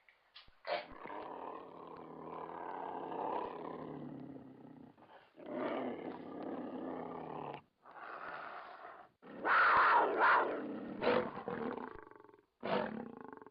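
Recorded big-cat roars and growls from an animatronic tiger display, several long roars in a row with short breaks, the loudest about two thirds of the way through.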